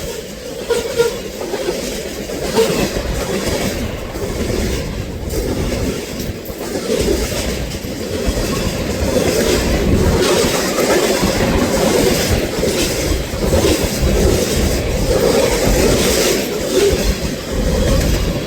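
Train passing at track level, its wheels clicking steadily over the rail joints over a continuous low rumble.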